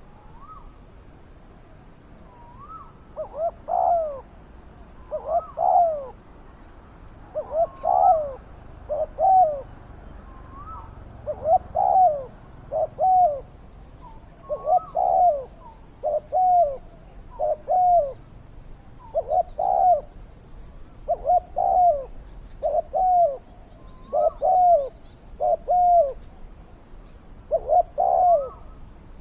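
Spotted dove cooing: deep coo phrases repeated one after another every second or two, starting about three seconds in.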